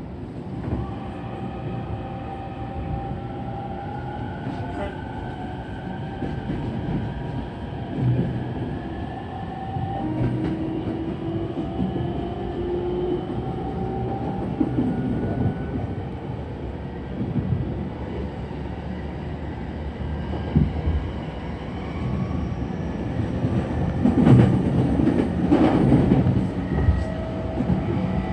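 Electric commuter train running, its traction motors whining in several tones that slowly rise in pitch as it gathers speed. Its wheels clack over rail joints a few times, with a louder burst of clatter near the end.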